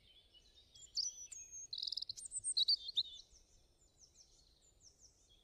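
Small birds chirping: quick high chirps and short downward-sliding notes, louder for about two seconds and then fainter.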